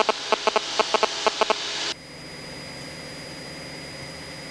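Cockpit audio through the aircraft's headset intercom: a hiss with a quick run of clicks, about five a second, which cuts off abruptly about two seconds in, leaving the steady, muffled cabin drone of the engine with hiss.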